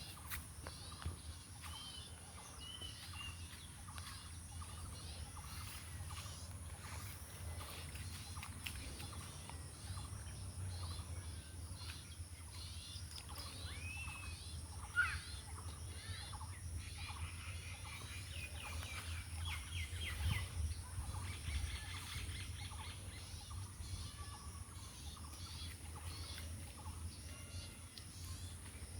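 Outdoor ambience with scattered bird calls, including a rapid trill about two-thirds of the way through, over a steady low rumble and a steady high hiss. A single sharp knock sounds about halfway through.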